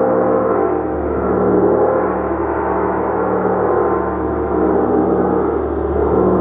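Gong ringing in a sustained wash of many overlapping tones, with no distinct strikes standing out and the level holding steady.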